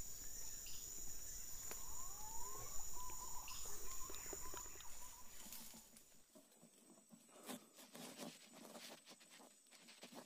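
Tropical forest ambience: a steady high-pitched insect drone, with a few short rising bird calls about two to three seconds in. Past the middle it turns quieter, leaving scattered faint rustles and clicks.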